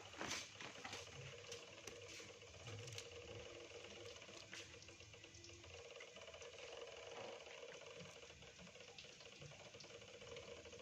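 Tempe frying in hot oil: a faint, steady sizzle with scattered crackles, and a few clicks of a utensil near the start.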